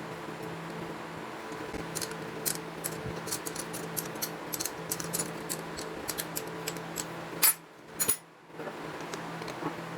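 A series of light, sharp clicks and clinks, as of small hard parts being handled, over a steady hum. The hum cuts out for about a second near the end, between two louder clicks.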